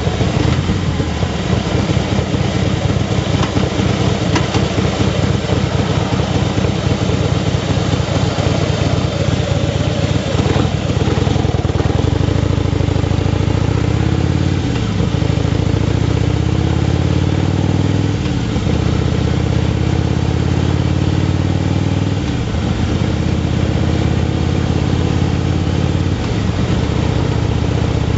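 Motorcycle engine pulling away and accelerating, its pitch climbing and then dropping sharply about five times as the rider shifts up through the gears.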